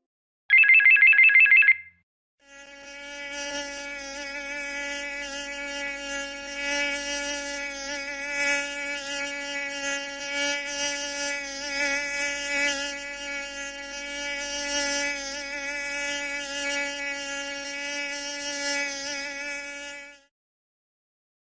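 A short, loud, rapidly pulsing high electronic tone, like a ringing bell or alarm. It is followed by a long buzzing of a flying insect that wavers in loudness, used as a stock sound effect.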